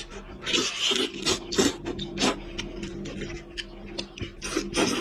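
Close-miked chewing and lip-smacking while eating goat head meat: a rapid, irregular run of sharp mouth smacks and clicks, with a longer sucking noise about half a second in.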